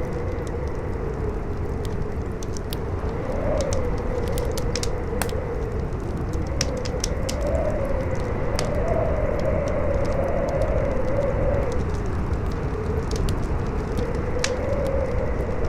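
Campfire crackling with irregular sharp pops, over a low rumble of strong wind with a howl that rises and falls in pitch.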